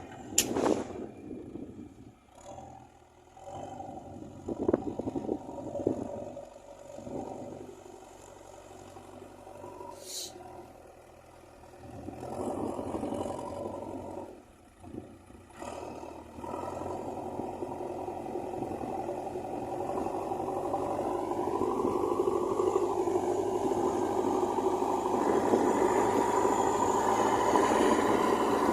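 JCB 3DX backhoe loader's diesel engine running, with scraping and clattering as the machine works the soil. Over the second half the engine becomes steady and grows louder.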